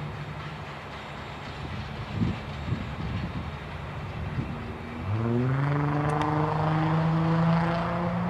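Diesel locomotive on a freight train, with a few clunks a couple of seconds in, then its engine revving up about five seconds in: a drone that rises in pitch and then holds steady and loud.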